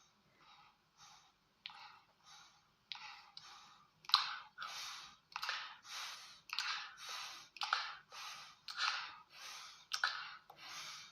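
A small dog panting close to the microphone: short, even huffs about two a second, louder from about four seconds in.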